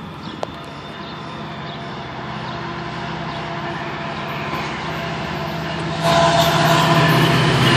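GO Transit diesel passenger train approaching, its steady engine hum growing louder. About six seconds in, the sound jumps sharply and stays loud.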